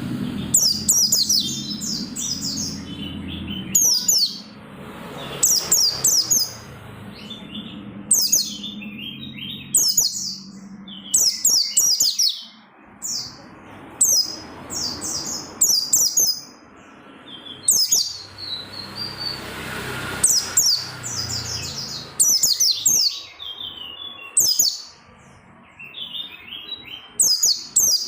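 White-eye (pleci) singing: short, high, rapid twittering phrases of quickly falling notes, repeated every one to two seconds.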